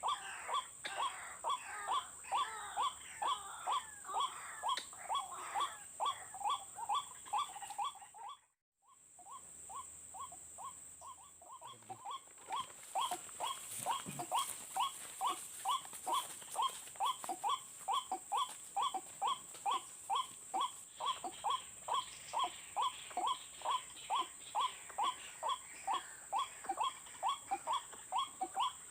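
White-breasted waterhen (ruak-ruak) calling: a monotonous run of short, repeated notes at about two to three a second, the bird's territorial call that is used as a lure. The sound cuts out for about a second roughly a third of the way through, and a steady thin high-pitched whine runs underneath.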